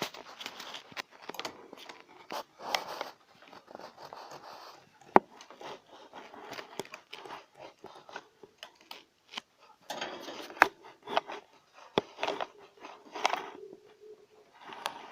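Male budgerigar warbling: an irregular, scratchy chatter full of clicks, the courtship song with which a cock budgie rouses a hen to mate.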